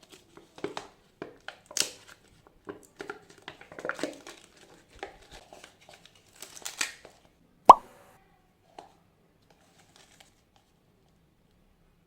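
Close handling sounds of food preparation: scattered light clicks, rustles and tearing noises, with one sharp clack a little under eight seconds in, then it goes nearly still.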